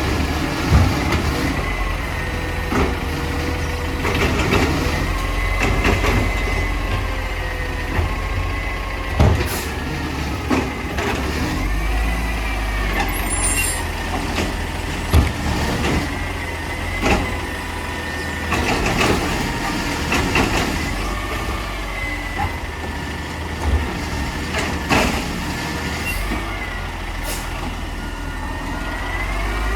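Mack LR garbage truck with a Labrie Automizer side-loader body running while it works: a steady engine rumble under a hydraulic whine that wavers up and down in pitch, with scattered knocks and clanks. Near the end the whine and engine rise in pitch.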